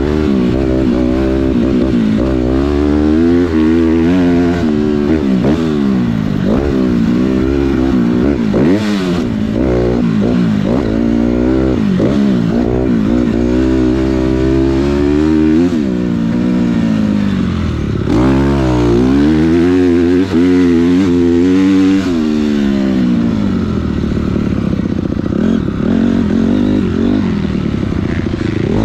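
Dirt bike engine revving hard on a motocross track, its pitch climbing and dropping again and again as the rider opens and closes the throttle and shifts through the gears.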